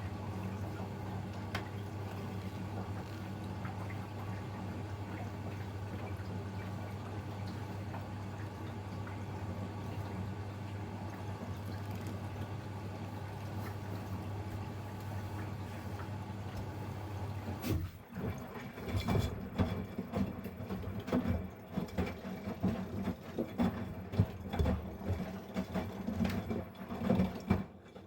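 Miele Professional PW 6065 Vario washing machine taking in water, with a steady hum. About two-thirds of the way through, the hum stops and the drum starts turning: the main wash begins, with irregular churning and sloshing of water and the soft load.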